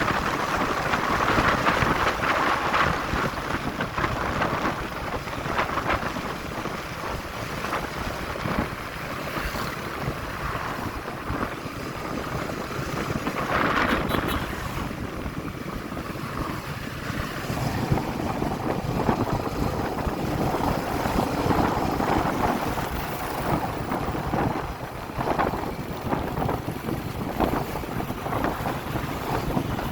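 Wind rushing over the microphone of a moving motorcycle, with engine and road noise underneath, rising and falling slowly in loudness.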